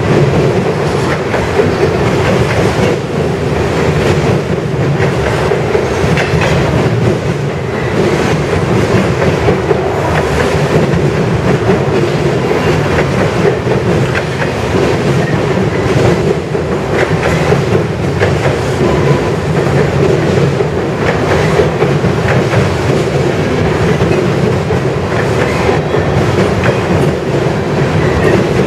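Freight train of ethanol tank cars rolling past close by: a steady, loud rumble of steel wheels on rail, with irregular clicks as the wheels cross rail joints and a faint wheel squeal now and then.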